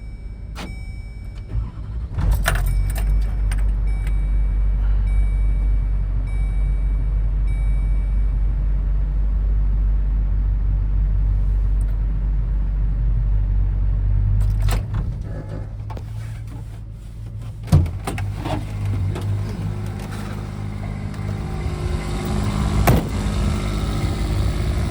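Chevrolet C5500 truck engine started from the cab, catching about two seconds in and then running at a steady idle. A short tone repeats several times over the first few seconds.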